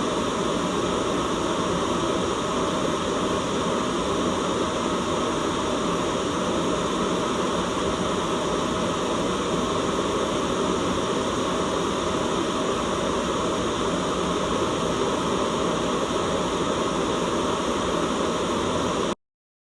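Steady white noise hiss that cuts off suddenly near the end.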